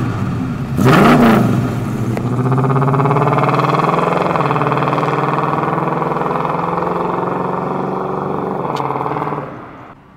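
1979 Pontiac Trans Am's 400 cubic-inch V8 revved in a quick blip about a second in, then pulling away at steady throttle, its exhaust note slowly fading as the car drives off. The sound cuts off suddenly near the end.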